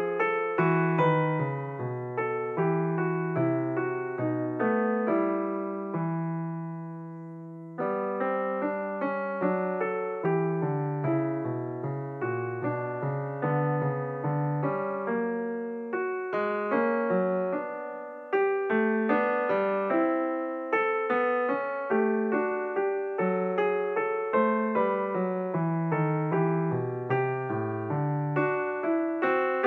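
Background piano music: a steady run of struck notes that die away, fading into a short lull about seven seconds in before starting again.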